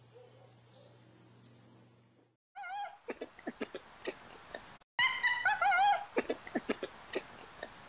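Ring-tailed lemur calling: two wavering, warbling mews, the second louder, each followed by a run of sharp clicks.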